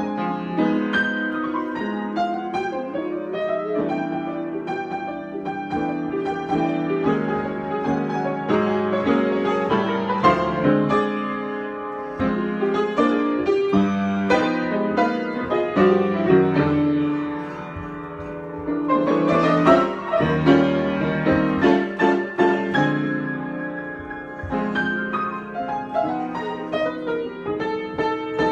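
Improvised piano music: sustained chords and melodic lines that swell and ease off several times.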